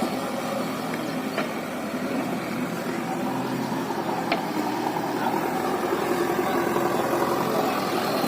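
Diesel engine of a JCB backhoe loader running steadily, with a short sharp click about four seconds in.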